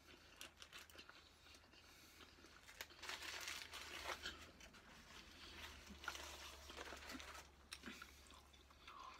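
Faint crunching and chewing of a crispy fried chicken and waffle sandwich, louder for a stretch about three to four seconds in.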